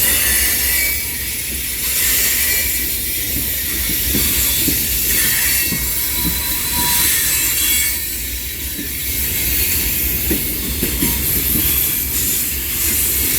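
Freight train of mostly empty cars rolling slowly through a curve, its wheel flanges squealing and rubbing against the rail over a steady low rumble and scattered clanks from the cars.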